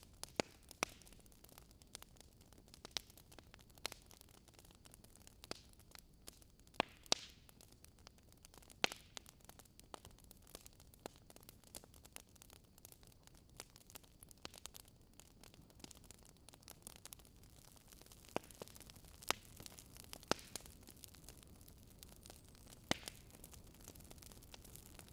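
Wood fire crackling: irregular sharp snaps and pops of burning wood over a faint steady hiss.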